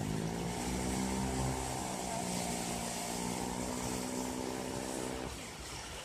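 An engine running steadily for about five seconds, its pitch dipping slightly at first, then cutting out, over the wash of waves.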